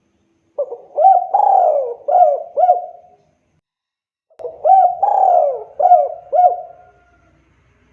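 Spotted dove (tekukur) singing its cooing song: two phrases of four or five low coos each, the second phrase starting about four seconds in.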